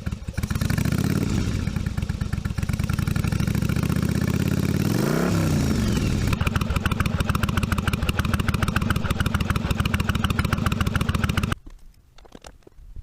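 1982 Yamaha Virago 750 V-twin motorcycle engine running on freshly tuned carburetors. It is revved twice, about a second in and again around five seconds, then runs steadily before stopping abruptly near the end.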